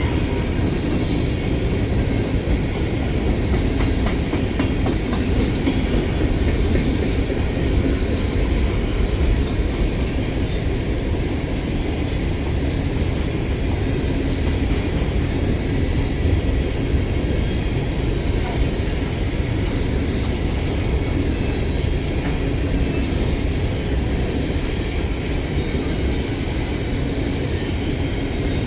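Empty coal train rolling past: a steady rumble with the rattle and clatter of wheels and hopper cars.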